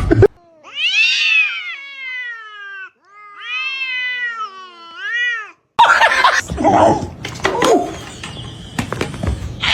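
A domestic cat gives two long, drawn-out meows, each gliding up and down in pitch. About halfway through, the sound cuts abruptly to a noisier stretch full of knocks and clatter.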